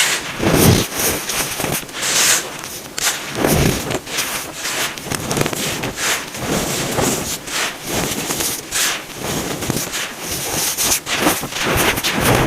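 Compressed baking soda being crushed, crunching and crackling in a run of squeezes, roughly one every second.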